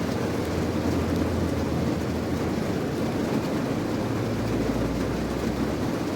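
Steady rain, a dense even wash of noise with a low rumble beneath it that swells for a couple of seconds near the end.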